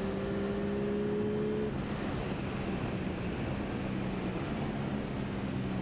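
Aprilia Tuono 660 parallel-twin engine running under way, with wind rush over the bike. The engine note climbs slowly for the first second and a half or so, then holds steady as the wind noise fills in.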